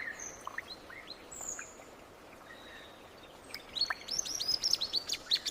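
Small birds chirping over a faint background hiss: scattered short high calls, then from a little under four seconds in a rapid run of high chirps, several a second.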